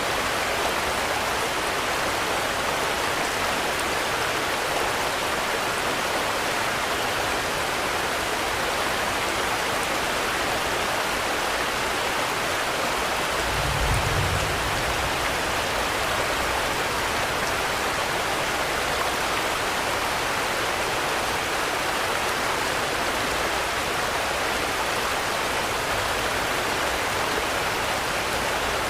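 Steady rain falling, an even hiss, with a brief low thud a little under halfway through.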